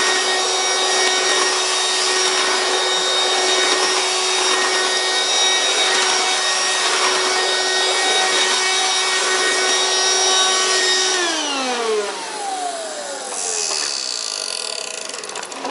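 Hoover Quik Broom Encore S2551 stick vacuum running, a steady motor whine over rushing air. About eleven seconds in it is switched off and the whine falls in pitch as the motor winds down.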